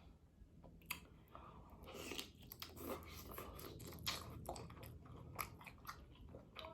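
Close-up mukbang eating sounds: a person chewing and biting seafood-boil food, with a run of short crunchy clicks that starts about a second in and gets busier from about two seconds.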